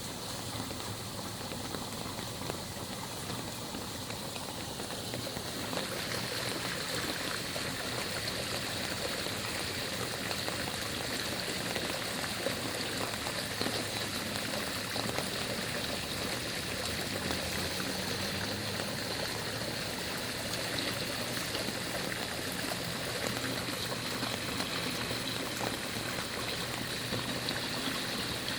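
Floodwater draining, a steady rush and trickle of running water that gets fuller and a little louder about six seconds in.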